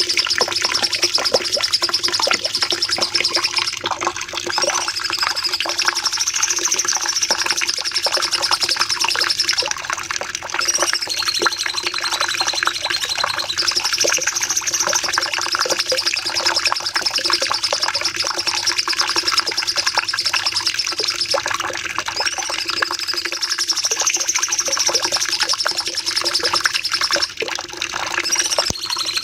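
Cucak cungkok singing a long, unbroken volley of rapid chirps and trills ('nembak panjang'), with warbling rises and falls in pitch and hardly a pause. A steady faint low hum lies under the song.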